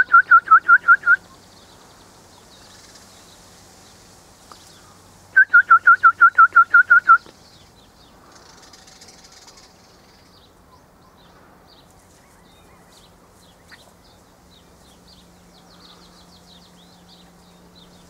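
A bird calling in two quick runs of clear, repeated whistled notes, about seven a second, each note dipping slightly in pitch: the first run stops about a second in, the second lasts about two seconds from five seconds in. Faint high chirps of other small birds come in between.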